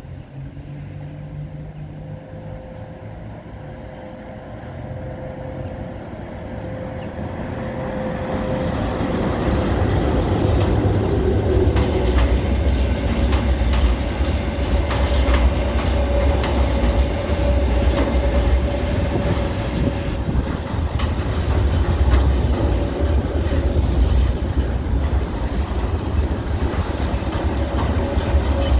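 Freight train led by a VL80s electric locomotive, hauling a long container train with refrigerated containers, passing close by. The rumble grows over the first ten seconds, then holds as a steady heavy roll, with wheels clicking over the rail joints and a steady hum.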